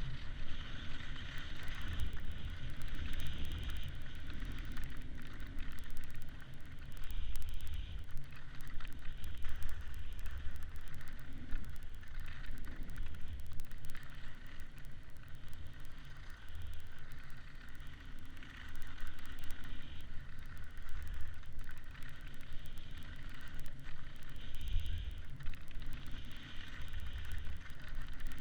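Wind buffeting the camera microphone in gusts while snowkiting, under a steady hiss.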